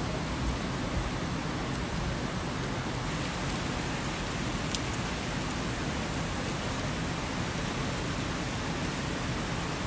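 Heavy monsoon rain falling steadily, an even hiss of rain on roofs and trees.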